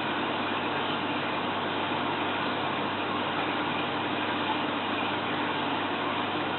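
Steady hiss with a faint low hum, unchanging throughout and with no sudden sounds.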